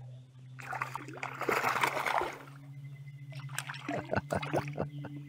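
A hooked redear sunfish (shellcracker) splashing at the water's surface as it is reeled up to the kayak, a busy burst of splashing about a second in, then scattered smaller splashes and drips near the end, over a steady low hum.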